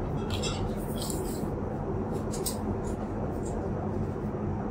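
Steady low rush of airliner cabin noise inside an Airbus A350-900, with a few short faint rustles from small handling movements.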